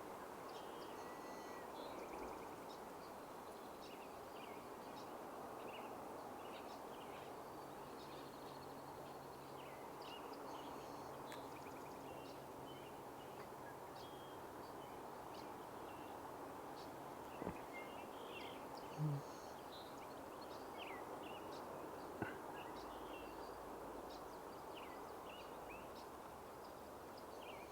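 Small songbirds chirping and calling with many short high notes scattered throughout, over a steady rushing background noise. A couple of brief soft thumps come about two-thirds of the way through.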